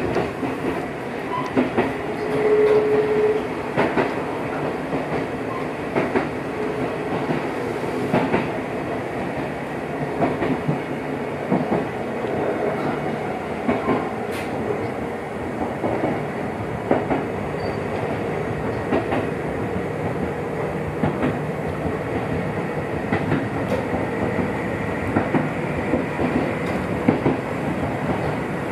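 Gakunan Railway electric train running between stations, heard from inside the car: steady running noise with the clickety-clack of wheels over rail joints. A short steady tone stands out about two and a half seconds in.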